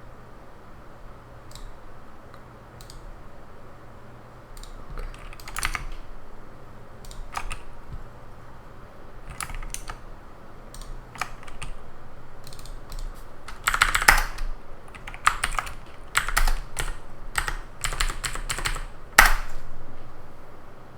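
Typing on a computer keyboard: irregular keystrokes, scattered at first, then quicker bunches of keys in the second half, with the loudest strokes about 14 and 19 seconds in. A faint steady low hum lies underneath.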